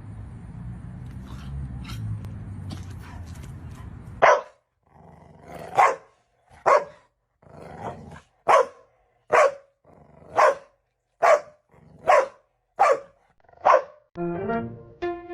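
A dog barking repeatedly: about eleven sharp barks, roughly one a second, after a few seconds of low rumbling background noise with scattered clicks. Music comes in near the end.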